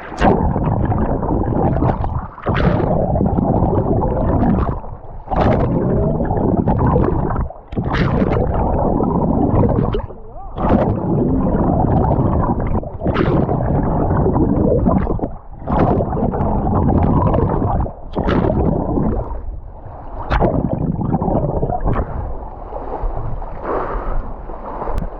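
Muffled water sloshing and gurgling right at the microphone, as if the camera is at or under the surface of the lake. It comes in surges about every two and a half seconds, each opening with a sharp splash.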